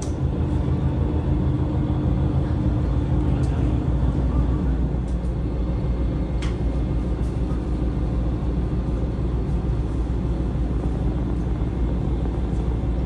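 Setsugekka diesel railcar running, a steady low rumble with a few brief clicks, the sharpest about six and a half seconds in.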